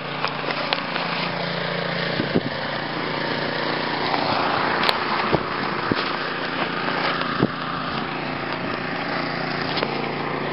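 Small gasoline snowblower engine running steadily, with a few sharp knocks scattered through.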